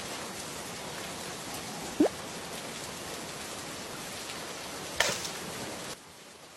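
Steady heavy rain, dropping to a quieter level about six seconds in. A short, loud rising tone sounds about two seconds in, and a sharp crack about five seconds in.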